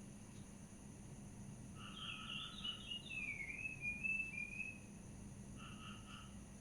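A bird singing: a quick run of chirping notes lasting about three seconds in the middle, with a shorter two-note call repeated near the end, over a steady faint hiss and hum.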